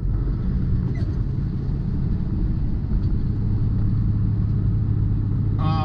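Semi-truck engine and road rumble heard from inside the cab while driving slowly: a steady low drone, with the engine's hum settling into one steady note about halfway through.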